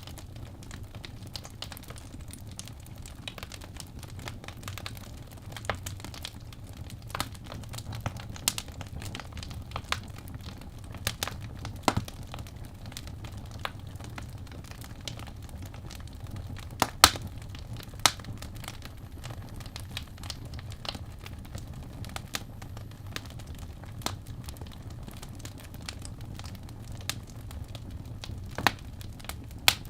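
Wood fire burning in a fireplace: a steady low rumble of flames with irregular crackles and sharp pops from the burning logs, a few louder pops about halfway through and near the end.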